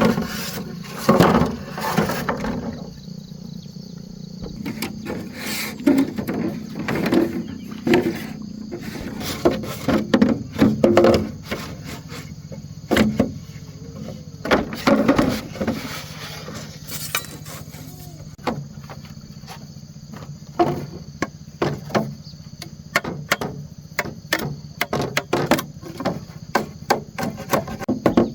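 An irregular series of knocks and taps, coming faster near the end, over a steady low hum.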